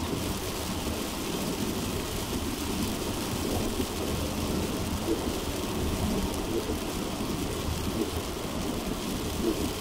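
Heavy rain beating steadily on a moving car, over a continuous low rumble of road and tyre noise.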